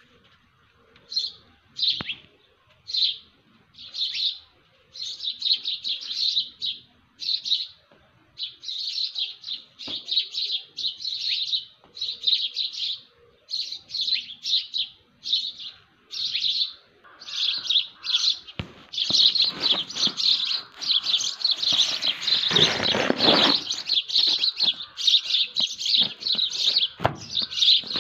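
Small birds chirping in short, quick calls, spaced out at first and thickening into a dense, continuous dawn chorus about two-thirds of the way through. A brief rushing noise sounds under the chorus at its densest.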